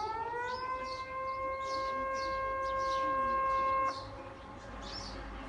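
Outdoor tsunami warning siren rising in pitch, holding one steady tone for about three seconds, then cutting off suddenly near the end.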